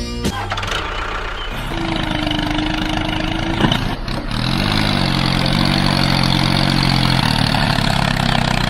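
Vehicle engine running steadily, its hum bending in pitch briefly about five seconds in, then holding steady.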